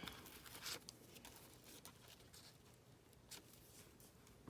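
Near silence: faint room tone with a few soft clicks and rustles of paper being handled as a folded signature is pinned to a journal cover.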